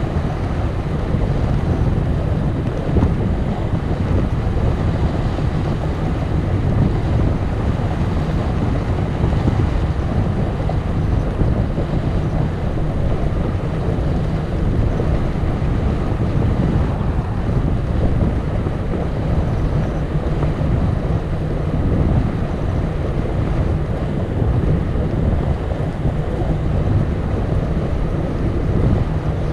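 Steady wind rumbling over the microphone of a camera on a moving bicycle.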